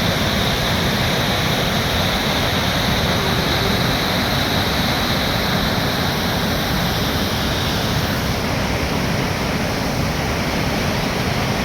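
Flowing water rushing steadily, a dense, even wash of noise with no breaks or rhythm.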